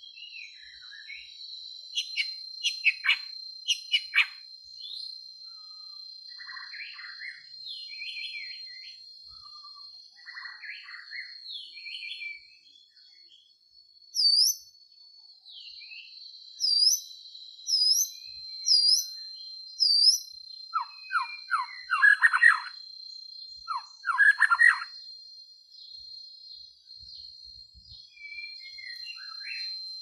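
Birds calling and whistling in a bamboo thicket: varied short chirps and whistled notes, with a run of five identical rising whistles about a second apart around the middle and clusters of sharp chirps after them, over a steady high-pitched whine.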